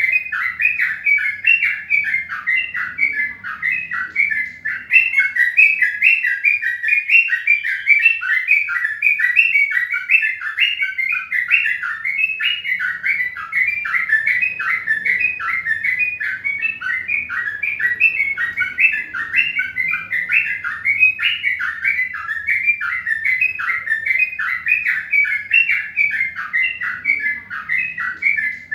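Birds chirping continuously: a dense, unbroken stream of short, rapid chirps.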